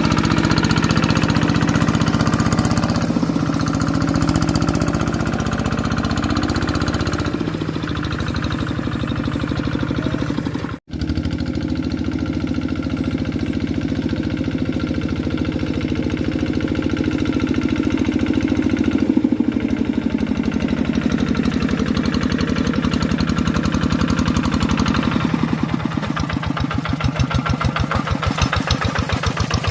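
A tractor engine runs steadily while plowing, its pitch shifting now and then. The sound cuts out for an instant about eleven seconds in. Near the end the engine slows to a lower, pulsing idle with each firing stroke audible.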